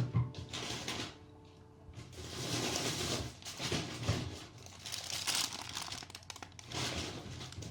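Crinkling and rustling of wrapping or packaging being handled, in a series of short bursts, with a sharp knock right at the start.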